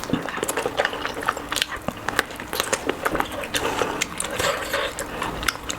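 Close-miked eating sounds: chewing and wet mouth clicks, a quick irregular run of small clicks and smacks.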